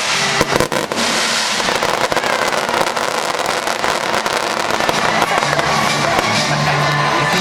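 Fireworks bursting and crackling continuously, with a few loud bangs about half a second in, over a live symphony orchestra playing.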